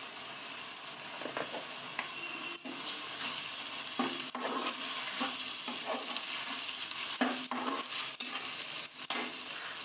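Onion and ginger-garlic paste frying in oil in a non-stick kadai, with a steady sizzle. A spatula scrapes and stirs it against the pan every second or so as the masala is sautéed.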